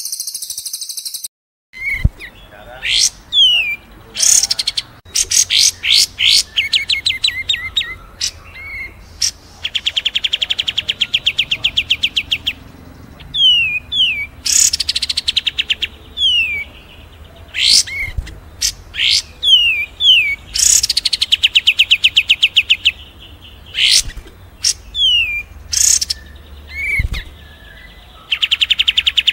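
Recorded songbirds singing in a dense mix of sharp upswept whistles, short falling notes and fast rattling trills, with a brief burst of hiss in the first second.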